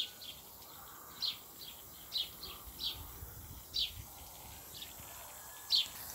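A bird chirping repeatedly outdoors: about a dozen short, high chirps at uneven gaps of roughly half a second to a second, over a faint steady background hiss.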